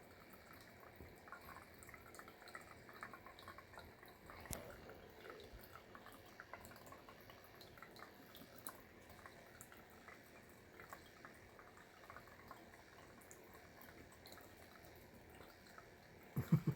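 Water trickling and dripping faintly from a small bird-bath shower, with scattered small ticks and one louder click about four and a half seconds in.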